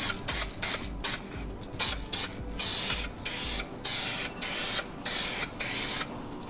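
Spray paint hissing from a can in short bursts, about three a second at first, then a few longer passes of about a second each. Heat-resistant crackle enamel is being sprayed on thinly, coat by coat.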